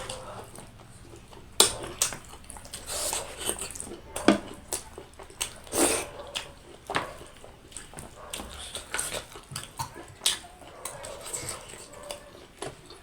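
A person eating noisily: wet chewing and smacking with irregular sharp clicks and crunches.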